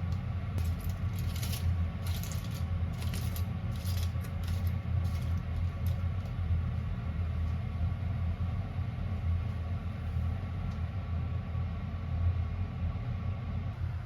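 A steady low hum with a run of light clinks and jingles of small hard objects during the first six seconds or so.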